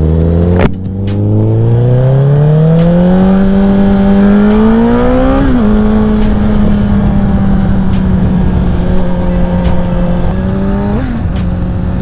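Honda CBR1000RR inline-four sport-bike engine accelerating up through the gears: the revs climb and drop sharply at a shift less than a second in, climb again for about five seconds to a second shift, then hold steady at cruising speed, with a short blip of throttle near the end.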